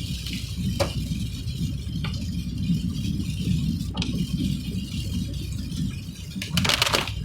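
Steady low rumble of a vehicle on the move, with a few sharp rattling clicks and a quick burst of rattles near the end.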